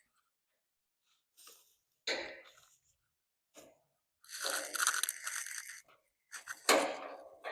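Cutters snipping the bands on a motorcycle shipping crate: a few sharp snaps and clicks, with a longer scraping, crinkling rustle in the middle as the bands are pulled away.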